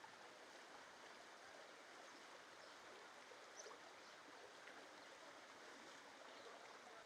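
Near silence: a faint, steady, even background noise.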